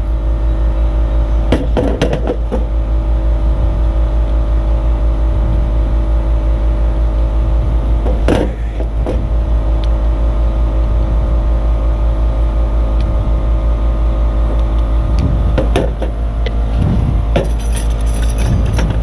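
A steady low mechanical hum, with a few light clicks and knocks from hand work on the brake caliper bracket: twice early on, once around the middle and a small cluster near the end.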